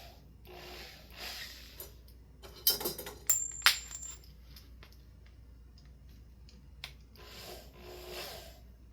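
Small metal parts clinking: three sharp clicks in about a second, one with a brief high ring, amid soft handling rustle.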